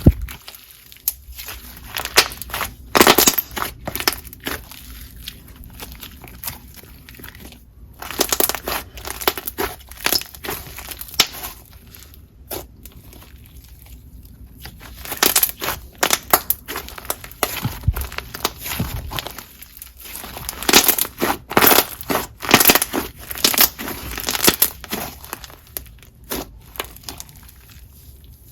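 Hands squishing, poking and stretching slime, giving runs of sticky crackling pops and squelches in uneven clusters, with quieter pauses in between.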